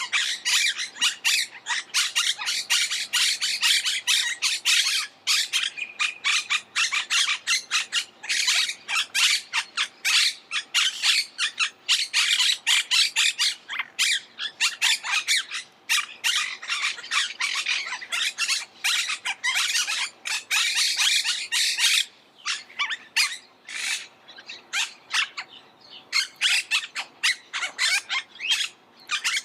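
Monk parakeets giving a rapid, continuous stream of harsh squawking calls, thinning to more separate calls about three quarters of the way through.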